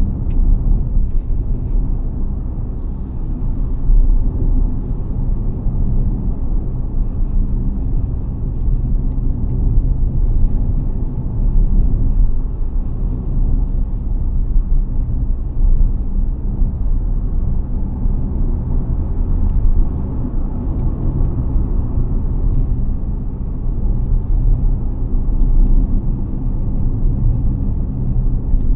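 BAIC BJ30e 1.5T hybrid SUV on the move: a steady low rumble of tyres and drivetrain.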